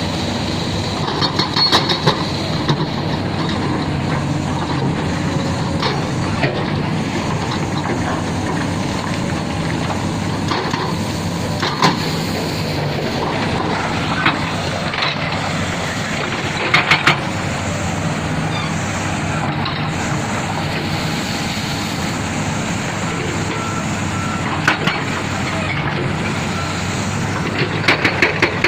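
Heavy construction machinery at work: a diesel engine running steadily with a constant low hum, with a few sharp clanks and knocks now and then.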